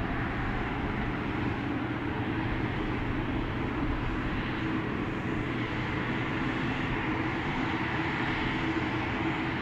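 Airliner engines running steadily, a continuous hum with a broad hiss over it.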